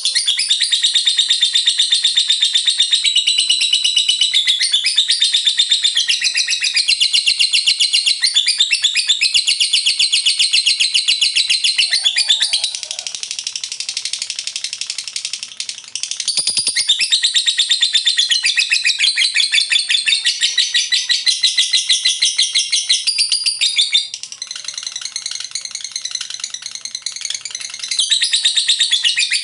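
Lovebird 'ngekek' song: a long, unbroken, rapid high-pitched chattering trill. It softens for a few seconds about halfway through and again near the end.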